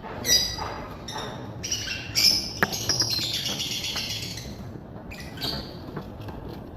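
Caged pet birds chirping and calling, a string of shrill, harsh calls with a sharp click about two and a half seconds in.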